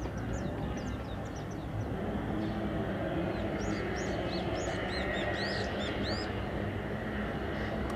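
Steady low outdoor rumble with small birds chirping in quick runs of short high notes, in the first second and again from about two and a half to six seconds in.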